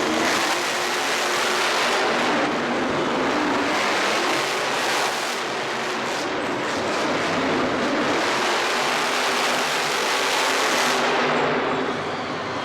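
Loud, steady engine noise from show vehicles in a motorsport arena, with a dense hiss of noise over it that dips slightly near the end.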